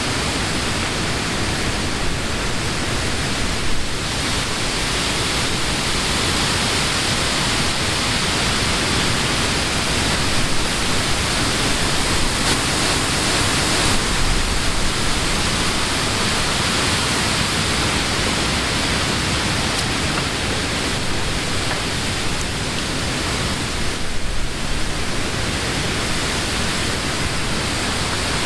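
Summer wind blowing through leafy trees: a steady rustling hiss of leaves that swells a little about midway and again near the end.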